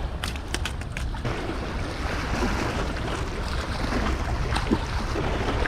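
Wind on the microphone over water washing against the shoreline, a steady rushing noise, with a few sharp clicks in the first second.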